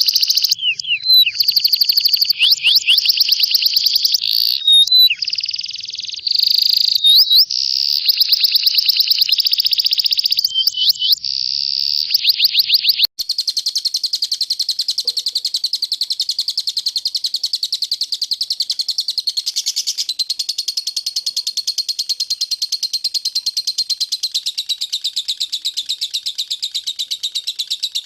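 Recorded songbird song used as masteran (training song for caged birds): fast high trills broken by sweeping whistled notes, then about halfway through an abrupt cut to a different bird's steady, very fast trill.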